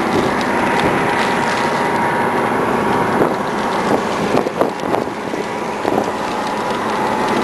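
Steady rain noise with wind buffeting the microphone, broken by scattered sharp taps.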